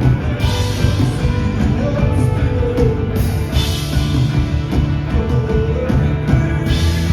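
Rock band playing live: guitars, bass and drums at full volume through a venue's sound system.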